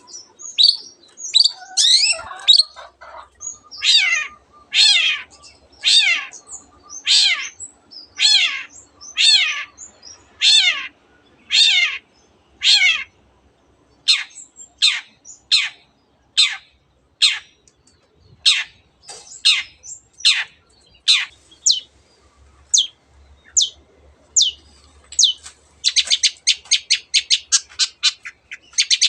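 Long-tailed shrike (cendet) singing: a long series of harsh, high notes, each sweeping down in pitch, repeated one or two times a second. Near the end the notes speed up into a rapid string of several a second.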